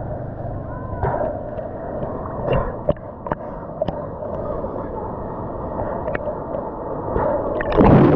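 Sea water sloshing and gurgling, with scattered sharp clicks and a louder rush of water just before the end.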